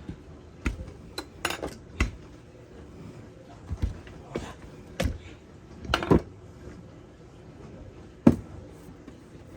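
Scattered knocks and clinks of kitchen utensils and containers being handled on a countertop while pie dough is floured and rolled out, about a dozen in all, the loudest one about eight seconds in.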